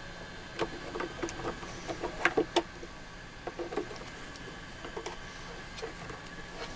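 Irregular clicks and short scrapes of a knife prying and cutting at an old speaker's enclosure, with a cluster of sharper clicks a little over two seconds in.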